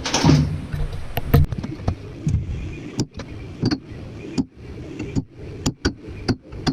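A run of irregular knocks and clicks, as of hard parts and tools being handled, over a low rumbling background.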